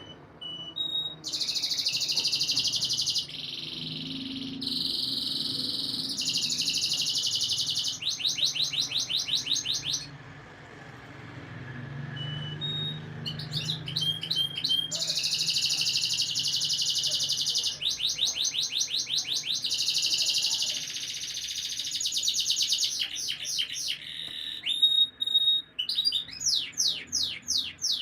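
Domestic canary singing: long rolling trills alternating with runs of quick repeated notes, with a pause of a couple of seconds about ten seconds in.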